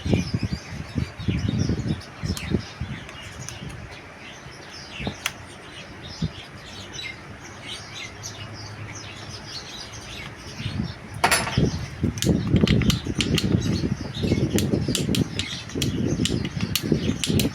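Birds chirping, over scattered sharp clicks and knocks of metal parts being handled. Heavier rustling and knocking sets in about eleven seconds in.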